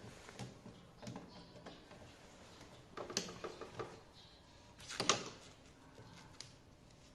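Scattered knocks, clicks and rattles of hands handling hard parts and tools while installing an air-conditioner indoor unit, with two louder clattering bursts about three and five seconds in.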